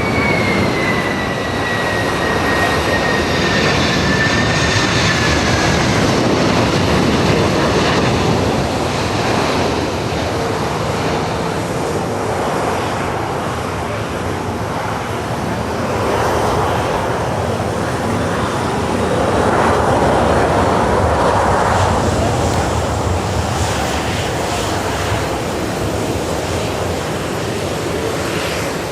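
Jet airliner engines running loudly, a steady rushing roar that swells and eases, with a high whine that falls slowly in pitch over the first few seconds.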